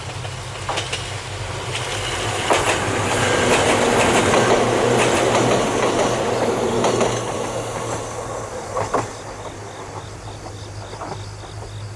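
Ohmi Railway electric train passing by, growing louder to a peak around the middle with wheels clicking over rail joints, then fading away. Insects chirp in a steady rhythm as the train recedes.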